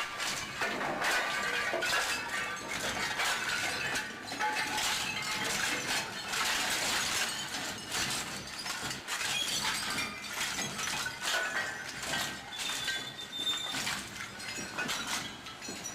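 SSI Dual-Shear industrial shredder tearing up car engine blocks: a continuous clatter of cracking, breaking metal, with a few brief high squeals of metal scraping on metal.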